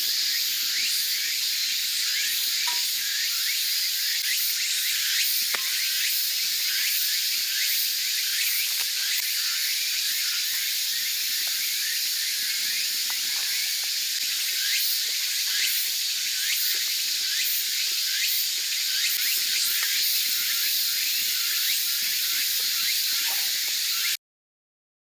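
Small wood fire in a compact fire pit, hissing steadily with many small irregular crackles. It cuts off suddenly about a second before the end.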